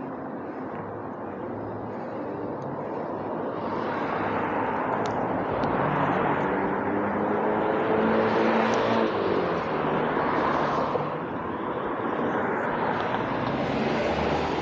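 Passing motor traffic: a vehicle's noise swells, peaks about eight to ten seconds in and fades, then another starts to build near the end.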